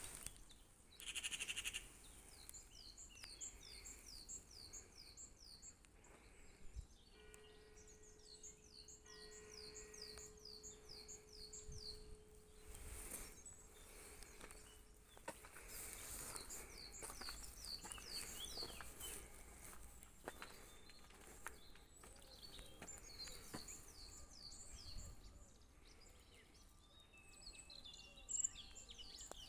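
Small birds singing faintly: several runs of rapid, evenly repeated high chirps over a few seconds each, with gaps between. A faint steady hum sits under the song for several seconds near the middle.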